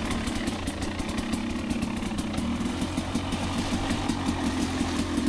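Two-stroke dirt bike engine running at low, steady revs.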